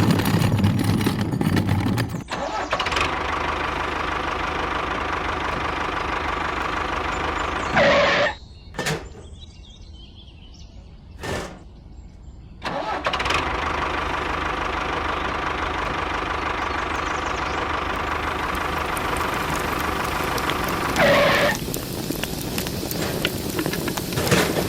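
A small machine motor runs steadily with an even hum. About eight seconds in it cuts out with a short burst, and about five seconds later it starts again and keeps running.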